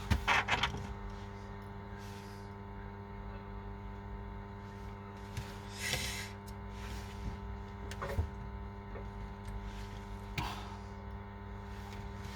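Steady electrical hum with several pitches layered together. A few short clicks and brief rustles sound over it: once near the start, and again about six, eight and ten seconds in.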